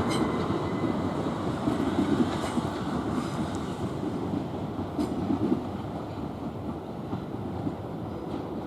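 Electrostar electric multiple-unit passenger trains running over the tracks, a rumble of wheels on rail with scattered clicks, slowly dying away as they move off.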